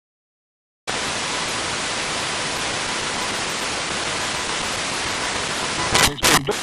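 SBox spirit box scanning FM radio, giving a steady loud static hiss that starts abruptly about a second in, with a few short louder blips near the end.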